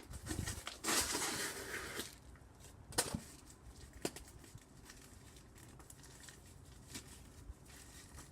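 About a second of rustling, crackling cardboard, then a single sharp knock, followed by a few faint clicks.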